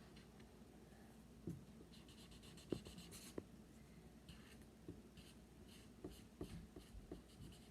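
Faint paper-craft handling: scattered light taps and ticks with short scratchy rustles of paper being worked by hand, the sharpest tap nearly three seconds in.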